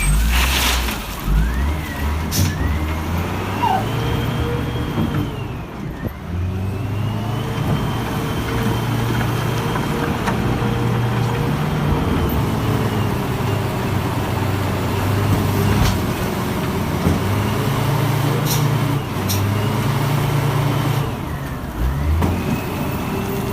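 Loader's motor running, its pitch rising and falling in slow arcs every few seconds as it works, with a few sharp clicks.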